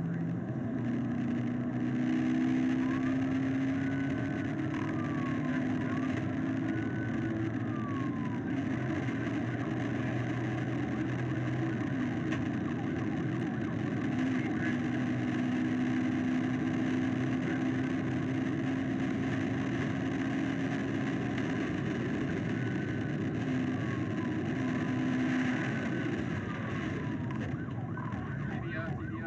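Police car siren wailing in slow rising-and-falling sweeps over steady engine and road noise from a patrol car driving at high speed.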